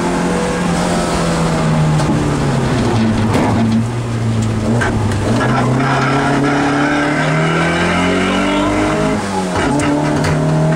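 Rally car engine heard from inside the cockpit, driven hard. The revs drop about four seconds in as it slows for a bend, climb steadily, dip briefly near the end at a gear change, then climb again.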